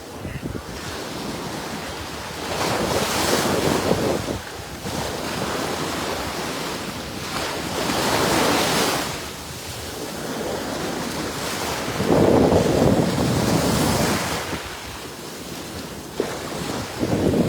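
Ocean surf breaking on the beach, four waves swelling and falling back about every four to five seconds, with wind blowing on the phone's microphone.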